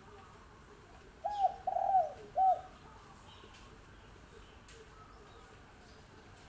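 Spotted dove cooing: one short phrase of three coos, the middle one the longest, about a second in.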